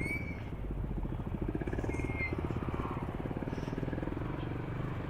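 Motorcycle engine running with a steady, fast-pulsing exhaust note. Two short high-pitched chirps come, one right at the start and one about two seconds in.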